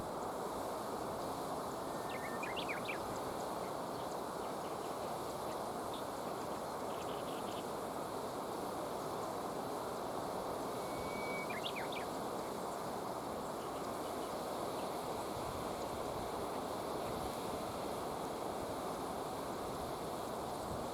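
Steady rushing of river water, with a small bird giving two brief high chirping calls, a couple of seconds in and again near the middle.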